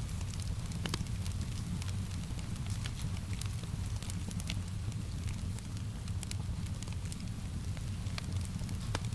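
Fireplace fire crackling: frequent, irregular sharp pops and snaps over a steady low rumble, mixed with a soft hiss of rain.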